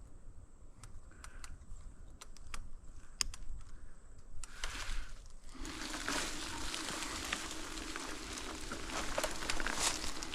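Brush and twigs crackling and snapping against an e-bike forced through an overgrown trail. About halfway in it turns into a louder continuous rustle, and a steady low hum joins it.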